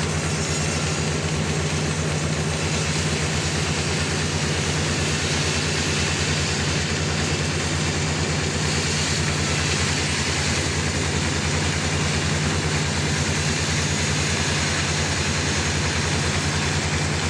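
A sawmill's engine running steadily with a fast, even throb.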